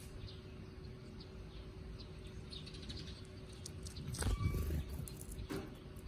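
Small birds chirping faintly in short high notes. About four seconds in comes a brief louder rustle with a low thump, and another short one about a second later.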